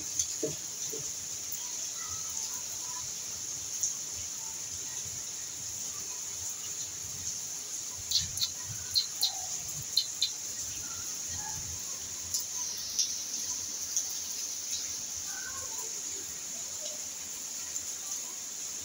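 Outdoor ambience: a steady high hiss with a few short bird chirps, clustered about halfway through.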